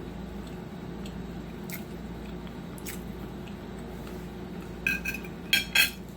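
Close-miked chewing of food, soft mouth sounds over a steady low hum, with a few short, louder wet mouth sounds near the end.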